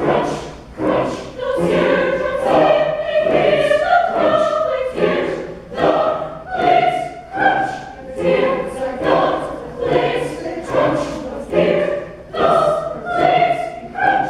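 Concert choir singing a choral piece, several voices together in short sung phrases.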